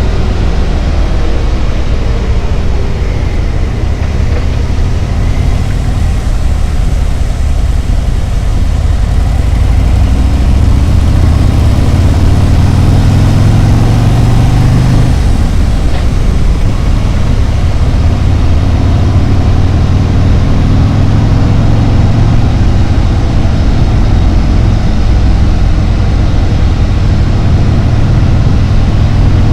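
Harley-Davidson Road Glide's V-twin engine running under way, a steady low rumble that gets a little louder about a third of the way in.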